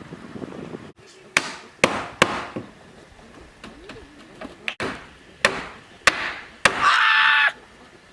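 A hand tool striking wood in sharp, separate blows, about seven of them at uneven intervals. Near the end there is a brief steady ringing tone.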